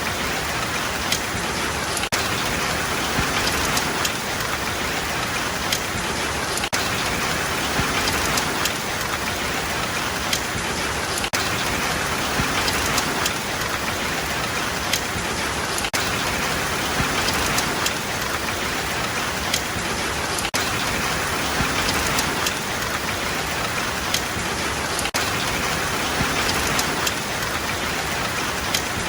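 Steady heavy rain, an even hiss with scattered single drops ticking on a surface.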